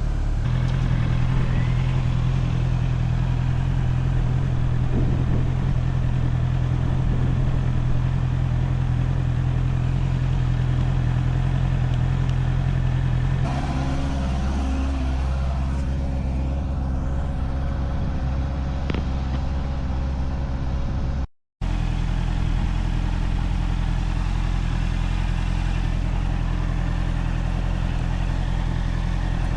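Honda CBR650R's inline-four engine running at a steady, unchanging pitch. Its note shifts to a lower, different pattern about halfway through, and the sound cuts out completely for a split second about two-thirds of the way in.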